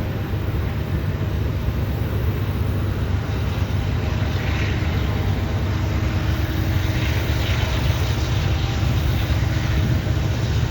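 Diesel freight locomotives running steadily under load, working up a grade, with a low engine drone throughout.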